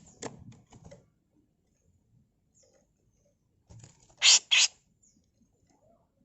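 Female grey-cheeked bulbul (cucak jenggot) giving harsh, rasping 'mbeset' calls. A few short scratchy notes come in the first second, then two loud harsh bursts about four seconds in.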